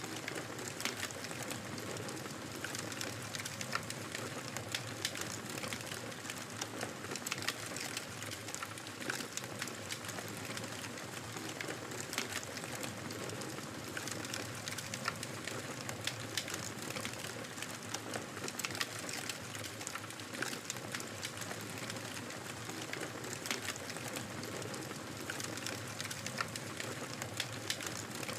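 Wood fire crackling in a fireplace: frequent sharp pops and snaps, irregularly spaced, over a steady soft hiss.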